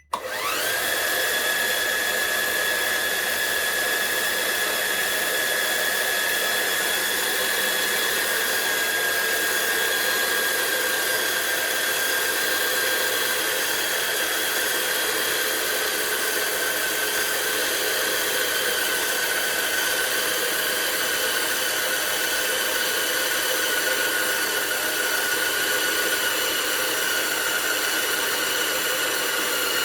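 CaDA M Power Functions-compatible motor starting abruptly and running steadily on 7.8 V, with a high gear-and-motor whine over a hiss. The whine sinks slowly in pitch as it runs.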